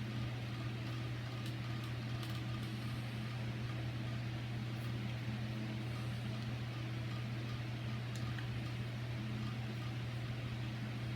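A steady low background hum, with a few faint clicks and taps as small lock parts are handled.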